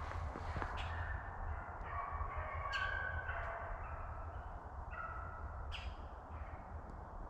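A pack of rabbit hounds bays as it runs a rabbit, with drawn-out, overlapping notes heard at a distance. A steady low rumble runs underneath.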